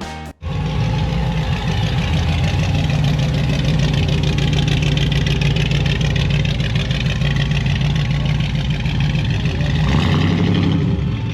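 A car engine running loudly and steadily at idle, its low rumble changing about ten seconds in.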